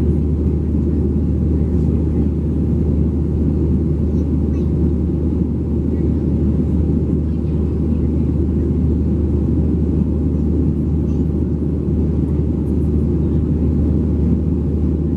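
Steady low rumble of a Boeing 737-700 in flight, heard inside the cabin: engine and airflow noise that holds level throughout.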